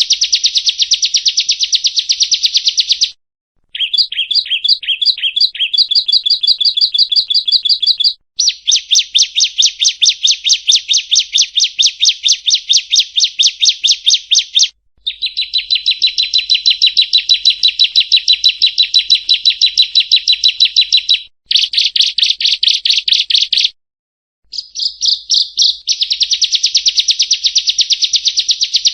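Bar-winged prinia (ciblek kristal) singing in long runs of fast, evenly repeated sharp notes, each run lasting several seconds. The runs are broken by brief pauses, and some stretches are clearer and more whistled than others.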